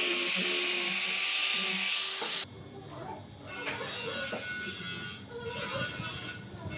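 A small electric power tool's motor runs with a steady high hiss, then stops abruptly about two and a half seconds in. Quieter, irregular workshop sounds follow.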